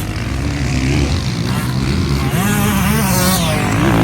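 Motocross bike engines running and revving on the track, the pitch rising and falling.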